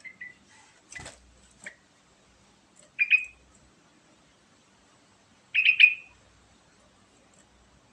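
Yellow-vented bulbul (trucukan) singing: two short, loud phrases of rapid chattering notes, about three seconds in and again near six seconds, with a few faint single notes and a sharp click about a second in.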